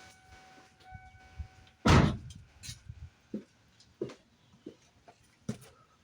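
One heavy thunk about two seconds in, followed by scattered light clicks and taps. A faint steady tone runs through the first two seconds.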